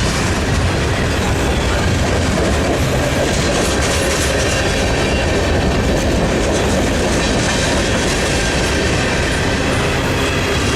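Railroad cars rolling past: a steady, loud rumble of steel wheels on rail with a clickety-clack of wheels over rail joints.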